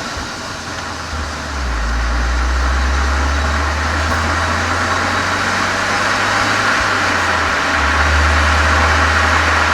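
Volkswagen Golf 7 GTI's turbocharged 2.0-litre four-cylinder running through a Cox aftermarket muffler with an added chamber, heard from behind the car: a steady low exhaust drone that grows louder about one and a half seconds in and again near the end.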